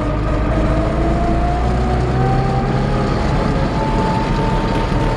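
MTZ-80 tractor's four-cylinder D-240 diesel running under load as the tractor picks up speed in ninth gear, high range, just after a clutchless shift. A whining tone climbs in pitch over about four seconds, then levels off.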